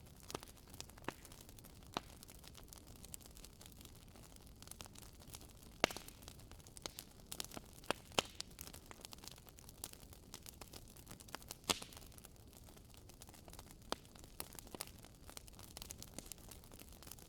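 Fire crackling in a fireplace: irregular sharp pops and snaps over a faint steady hiss, the loudest pops about six and twelve seconds in.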